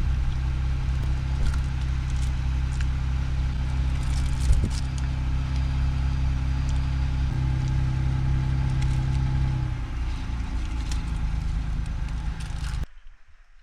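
Car engine running steadily, a low even hum with slight shifts in pitch about seven and ten seconds in; it cuts off abruptly near the end.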